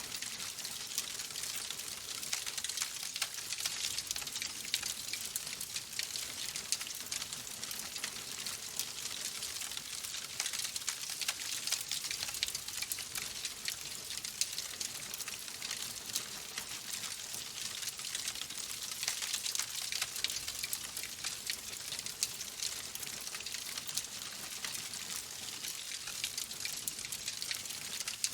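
Wood fire burning in a fireplace, logs crackling with a steady run of small pops and snaps over a soft hiss.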